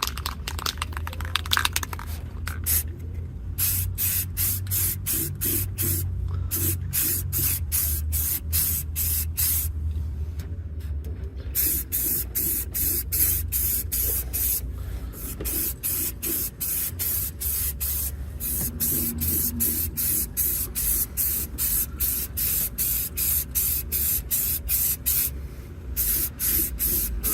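Primer sprayed onto an M1 helmet liner in quick short strokes of hiss, with a few brief pauses, over a steady low hum.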